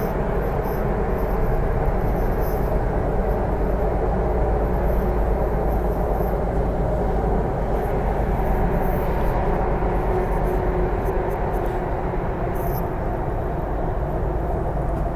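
Hyundai Rotem R-Train electric multiple unit running at speed, heard from inside the car: a steady rumble of wheels on rail and running gear, with a few faint high clicks.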